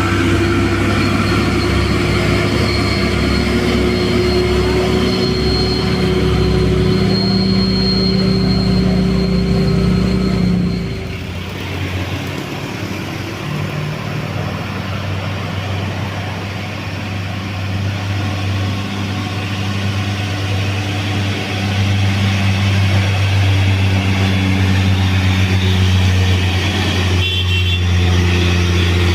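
Heavy truck diesel engines running under load on a steep climb, with a high steady whine over the engine for the first ten seconds. About eleven seconds in the sound drops and changes pitch, then builds again; a short sharp sound comes near the end.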